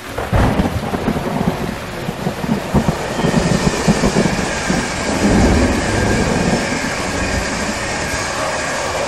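Passenger train passing at speed close by: a continuous rush and rumble of wheels on rail, with irregular low thumps.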